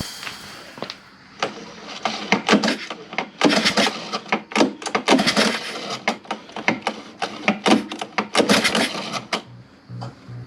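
Irregular clicking and clattering of hand tools on metal parts, in quick uneven runs that die away near the end.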